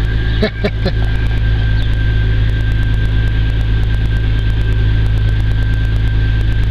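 Volkswagen Passat engine idling steadily, heard from inside the cabin, with a thin steady high tone over it. It is running on a newly programmed key that the immobilizer has accepted.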